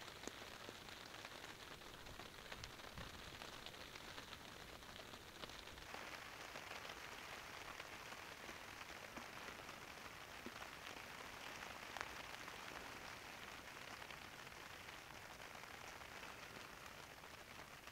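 Faint, steady rain falling, with a few scattered drop ticks, the sharpest about twelve seconds in.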